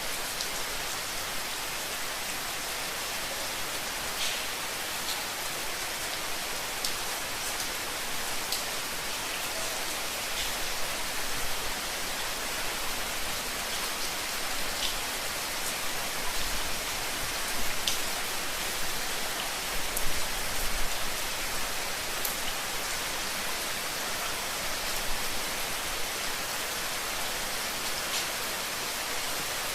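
Steady rain falling, an even hiss with scattered individual drops ticking, and a few soft low thumps around the middle.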